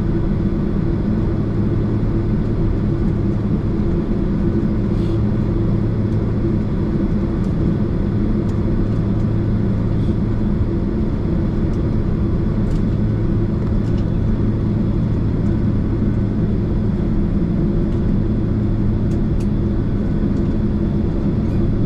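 Steady cabin noise of a Boeing 767 taxiing after landing: its engines at idle give an even, low hum with a few faint clicks.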